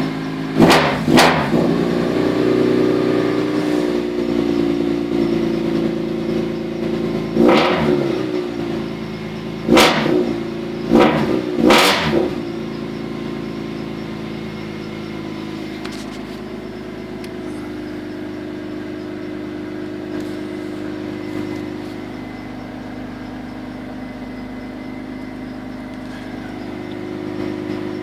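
BMW E30's S50B32 3.2-litre straight-six with a straight-through exhaust, blipped to five short, sharp revs in the first twelve seconds, then idling steadily.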